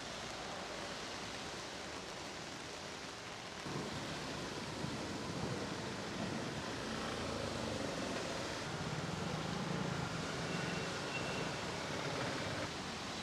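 Heavy rain falling, a steady hiss that gets louder about four seconds in.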